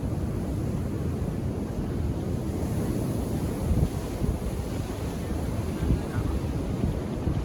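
Ocean surf washing against the shore in a continuous low rumble that swells and ebbs, with wind buffeting the microphone.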